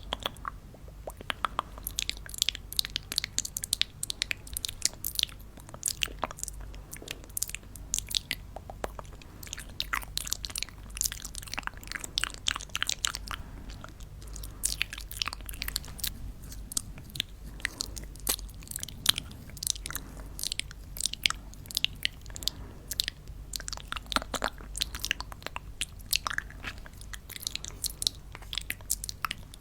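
Piñata candy and paper being handled close to the microphone: a dense, irregular run of small sharp clicks and crackles.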